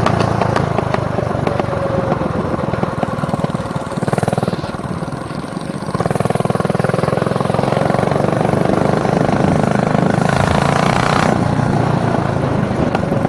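Mini bike's small engine running under throttle, its pitch rising and falling as it is ridden, easing off for a couple of seconds about four seconds in before picking up again.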